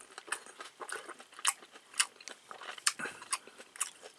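A person chewing a mouthful of grilled pork belly up close: irregular, sharp, wet mouth clicks and crunches, a few a second.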